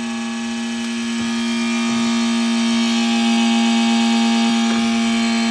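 AOSEED X-Maker Joy 3D printer running with a loud, steady, low hum rich in overtones that slowly grows louder. The owner calls it an abnormal vibration in the machine.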